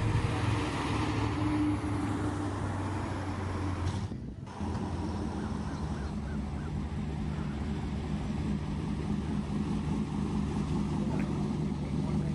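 Car engine idling with a steady low note; about four seconds in the sound drops out briefly and a different low engine note runs on after it.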